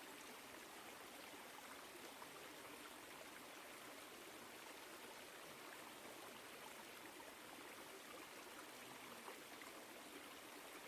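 Woodland stream flowing: a faint, steady rush of running water.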